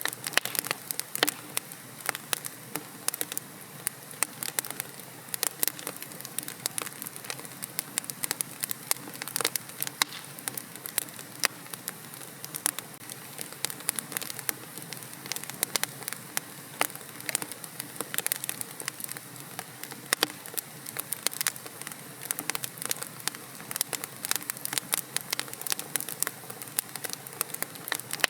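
Fireplace fire crackling: a dense, irregular run of sharp pops and snaps, several a second, over a steady soft hiss.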